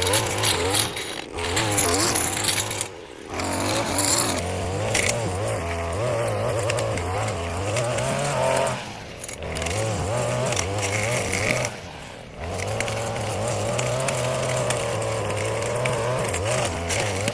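Small petrol engine of a yard-care power tool running at working speed, its pitch wavering. It eases off briefly three times.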